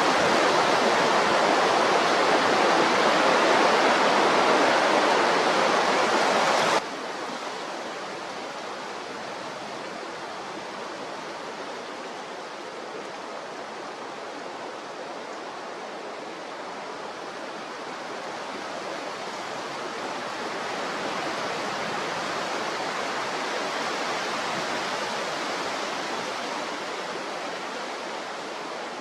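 Strong wind rushing, a loud steady hiss that drops abruptly about seven seconds in and swells again later.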